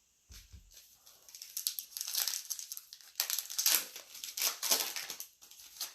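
Foil trading-card pack wrapper being crinkled and torn open by hand, a dense run of crackling after a soft low thump about a third of a second in.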